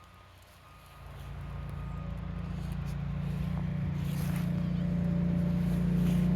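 A motor engine running with a steady low hum that grows louder from about a second in.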